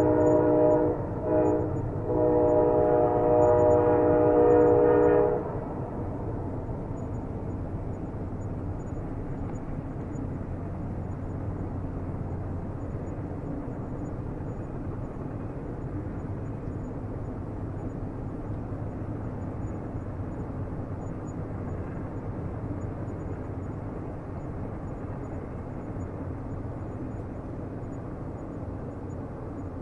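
Train horn sounding a chord of several notes, with two short breaks, that stops about five seconds in. After it comes the steady rumble of a passing train, slowly fading.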